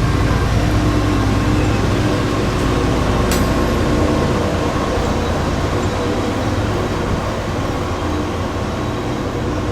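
Electric-hauled train running with a steady hum and low rumble. The deep rumble drops away about four seconds in, and there is a single sharp click a little after three seconds.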